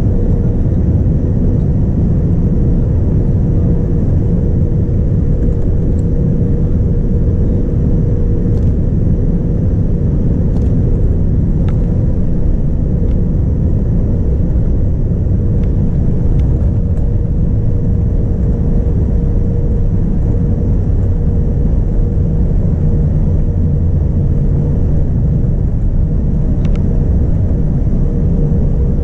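Cabin noise of a Boeing 787-9 Dreamliner in flight, heard from a seat over the wing: a steady low rumble of engines and airflow with a constant hum, and a few faint clicks.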